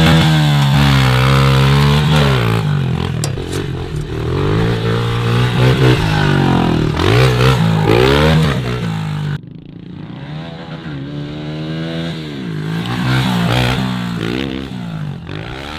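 Off-road vehicle engine revving up and easing off over and over, its pitch rising and falling with the throttle. About nine seconds in the sound suddenly drops much quieter and duller, then the revving goes on.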